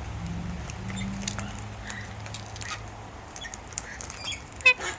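Wild parrots squabbling over food: scattered short clicks and taps of beaks at the feed, and a short harsh chattering call about four and a half seconds in, the loudest sound.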